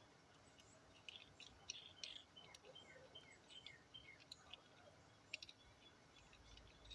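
Faint bird chirps, short notes sliding down in pitch, with a few light clicks scattered through.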